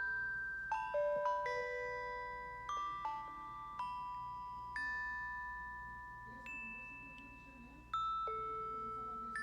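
iPhone ringtone playing: a slow melody of bell-like chime notes, each struck sharply and left to ring and fade into the next.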